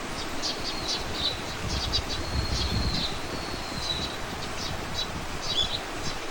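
Small birds singing: high, quick chirps throughout and one long, thin whistle about two seconds in. Beneath them is a steady rustle of wind and leaves, with a low rumble swelling briefly near the middle.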